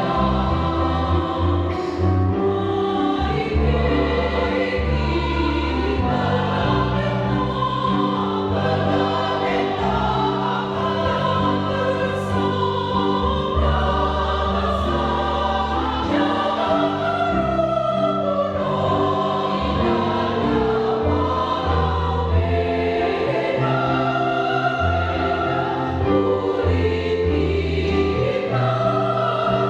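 Church choir singing a hymn in parts, with sustained low bass notes underneath.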